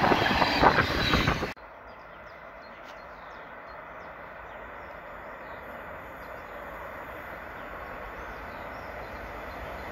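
Container wagons of an intermodal freight train rattle and rumble past close by, then cut off suddenly about a second and a half in. After that comes a faint, low rumble of the next train approaching, growing slowly louder.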